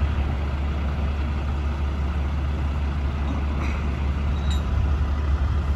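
Heavy diesel engines running steadily, a constant low rumble.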